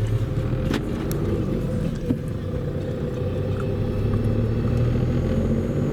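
Steady in-cabin drone of a Skoda Fabia's 1.4 TDI three-cylinder turbodiesel (BNV) with pump-injectors while the car is being driven, mixed with road noise. It gets slightly louder near the end.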